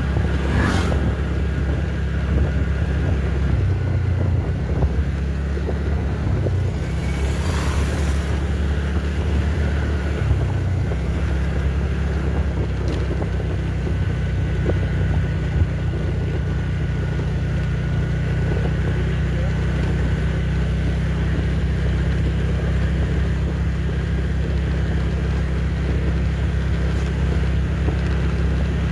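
Moving train running with a steady low rumble, a faint steady whine above it.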